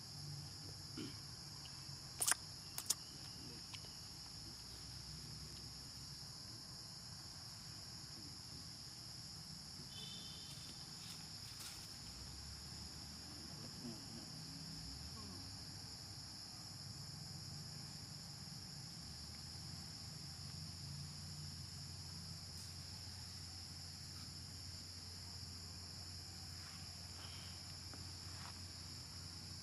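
Steady high-pitched drone of insects in forest, with two sharp clicks a little over two seconds in.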